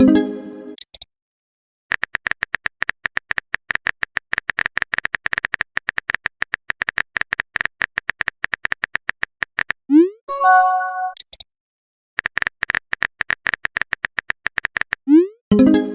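Phone-keyboard typing sound effect: rapid short clicky beeps, several a second, in long runs. About ten seconds in, a rising swoop and a short chime like a chat message being sent; the typing then resumes and ends in another swoop and chime near the end.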